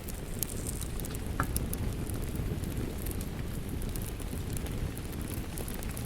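Wood fire crackling in a fireplace, with scattered sharp pops, over the steady rush of rain. A louder pop comes about a second and a half in.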